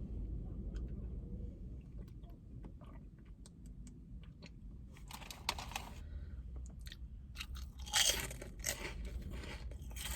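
A person chewing and biting crunchy food close to the microphone, with scattered small crunches and two louder bursts of crunching, about halfway through and near the end.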